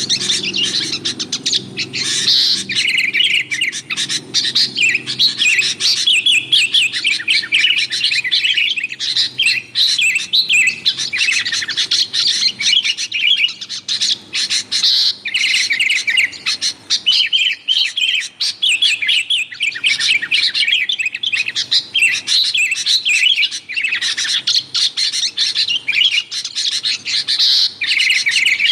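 Sooty-headed bulbuls (kutilang) chattering noisily, a dense run of rapid, overlapping chirps with only short pauses.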